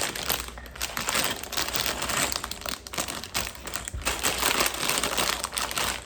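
Plastic rustling and crinkling with many small, irregular clicks, as Lego pieces and their bags are handled and sorted through.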